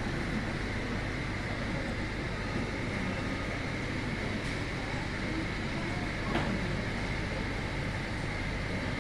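Steady rain falling, an unbroken even hiss with a constant low rumble under it and one small tick about six seconds in.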